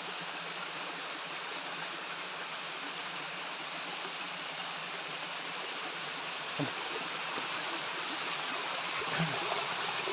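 Steady rush of water from a small jungle waterfall, growing a little louder near the end.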